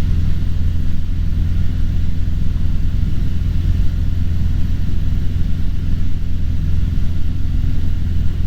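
Cessna 150's four-cylinder Continental O-200 engine and propeller droning steadily in cruise, heard inside the cockpit.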